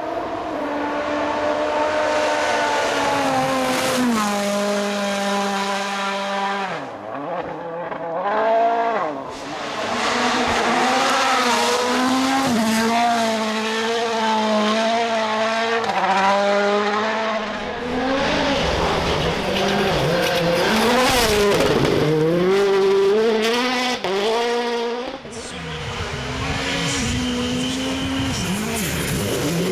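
World Rally Cars' 1.6-litre turbocharged four-cylinder engines at full attack: revving hard through quick gear changes, with the note dropping sharply several times as the driver lifts, then climbing again, along with tyre noise.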